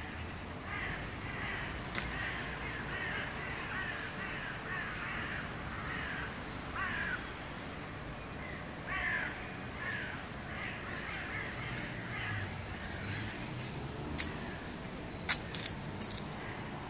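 Birds calling outdoors: a run of short harsh calls, each dropping in pitch, repeating several times a second for most of the first ten seconds, over a steady low background rumble. A few sharp clicks come near the end.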